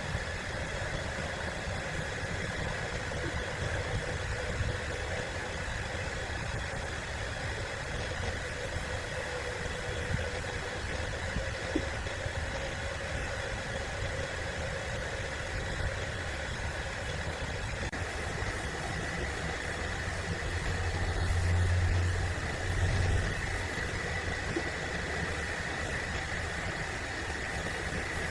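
Sawmill machinery running steadily: an engine-like drone with a steady whine over it, swelling louder for a moment about three-quarters of the way through.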